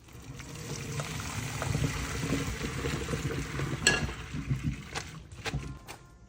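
Water pouring in a kitchen for about five seconds, with a sharp knock about four seconds in and a few lighter clicks as it tails off.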